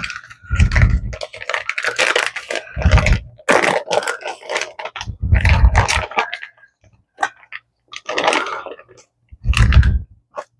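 A package being cut and pulled open with kitchen scissors: irregular crackling and crinkling, broken by four dull thumps.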